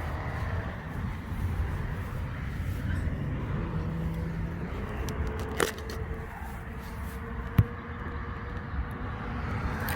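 Steady low rumble of vehicle traffic with a faint hum, and two sharp clicks, the second and loudest about seven and a half seconds in.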